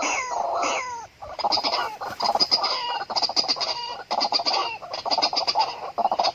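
White-breasted waterhen calling: repeated falling notes about three a second, then about a second in a faster, harsh croaking chatter that keeps going.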